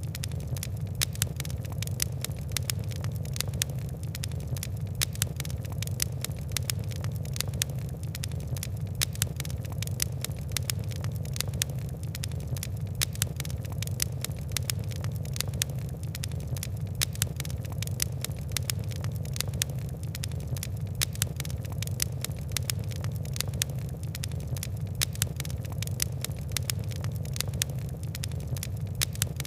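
Fire crackling steadily: many small sharp pops and ticks, several a second, over a low steady rumble of the flames.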